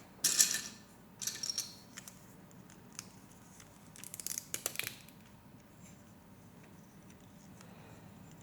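Plastic Lego Technic pieces being handled and fitted together: short bursts of clicking and rattling. The loudest comes about half a second in, and a quicker run of small clicks follows around four to five seconds in.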